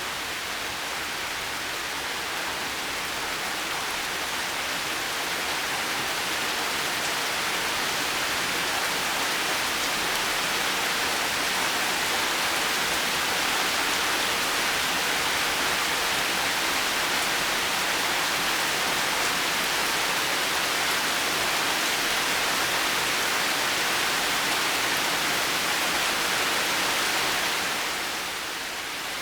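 Heavy rain falling steadily, a dense even hiss with no thunder, swelling a little over the first few seconds and easing slightly near the end.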